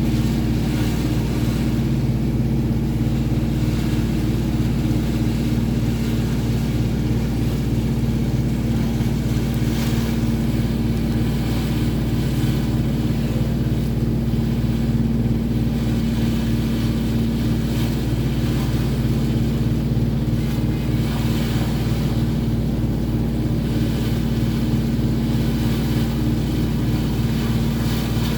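A boat engine running steadily, a constant low drone with a faint wash of wind and water over it.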